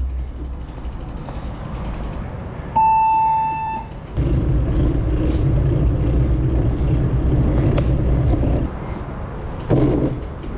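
A single steady horn beep lasting about a second, about three seconds in, then the loud low rumble of passing road traffic for about four seconds.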